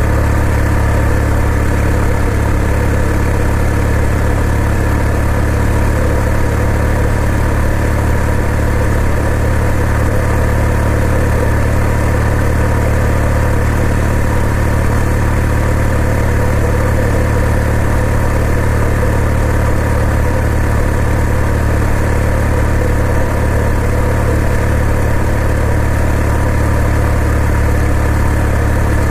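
Kawasaki W800's air-cooled parallel-twin engine running steadily, its pitch unchanging throughout.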